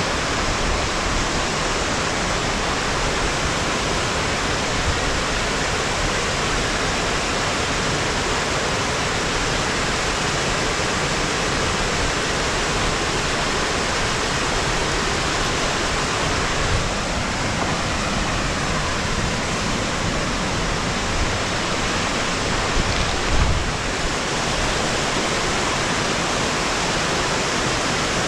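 Waterfall cascade: a steady, loud rush of falling water, with a couple of brief low bumps in the second half.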